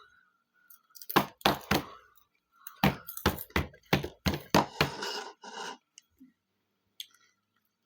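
Crunchy Flamin' Hot Cheetos being bitten and chewed close to the microphone: two runs of loud, sharp crunches, about three a second, the second ending in a short rustle.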